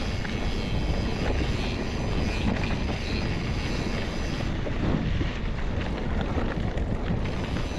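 Steady wind rush on the microphone of a mountain bike moving at speed, over the rolling noise of its tyres on a dirt trail.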